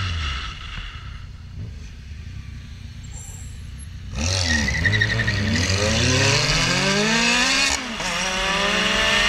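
Ferrari sports car engine accelerating hard from a standstill, its pitch climbing steadily, dipping at a gear change about eight seconds in, then climbing again. Before that, about four seconds of quieter engine and road sound after an engine note dies away.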